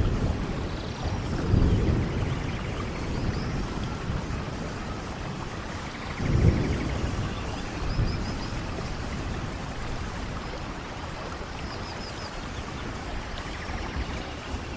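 Steady rain falling in a rainforest, with thunder rumbling low: one swell about a second and a half in and a louder one about six seconds in.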